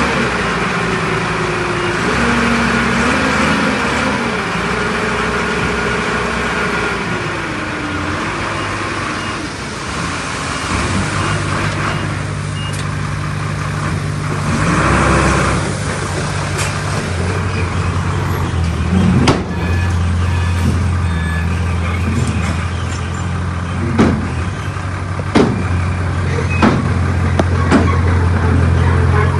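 Heavy diesel engines of earthmoving machinery running, revving up and down over the first several seconds, then settling into a steady low drone. A short burst of hiss comes about halfway through, and several sharp knocks near the end.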